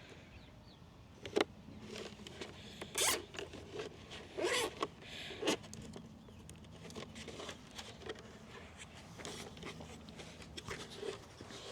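Plastic cable ties being pulled tight through a cut plastic bucket shaped into a chicken cone: a few sharp zipping pulls in the first half, then quieter rubbing and handling of the plastic.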